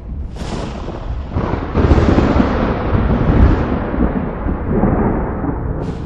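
A thunderclap in a thunderstorm: a short crack, then deep rolling rumble that builds about a second and a half in and slowly dies away, with another sharp crack near the end.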